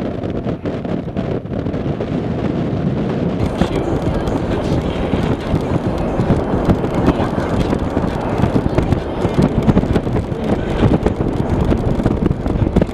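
Blizzard wind buffeting the microphone: a loud, gusty rumble with crackling, growing fuller about three seconds in.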